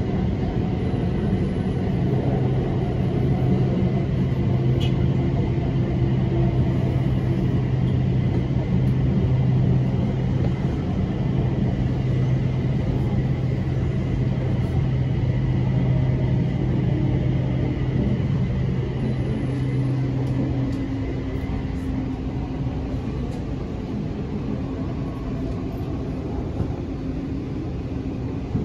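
BTS Skytrain car running along the line, heard from inside: a steady rumble of the wheels on the rails with a low, even hum that stops about two-thirds of the way through, as a higher steady tone comes in.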